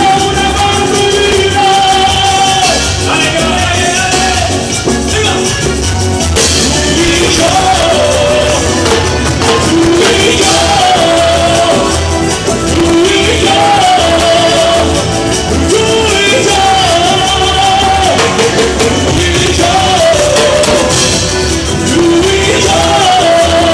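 A band playing with a singer: a sung melody over a steady, pulsing bass beat.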